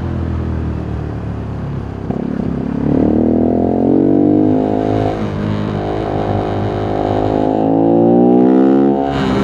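Voge 125R's single-cylinder 125cc engine accelerating: it runs at lower revs, then from about two seconds in climbs in pitch. There is a short dip about five seconds in, then it climbs again and drops near the end, like upshifts through the gears.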